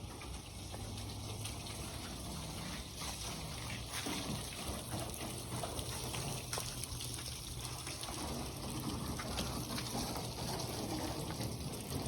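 Water from a hose spraying and splashing steadily, rinsing bleach off a fiberglass boat.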